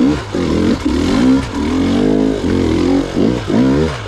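Gas Gas EX 300 two-stroke enduro motorcycle engine revving up and down in short throttle bursts, the pitch rising and falling again and again, as the bike is worked through a tricky rocky section.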